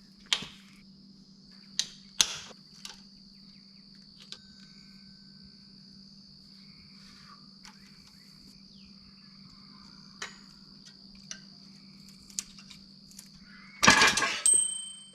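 Engine teardown work on a Cummins C160 block: a few sharp metal clicks and knocks, then near the end a loud burst of metal clatter with a short ringing note. Crickets chirp steadily with a low hum underneath.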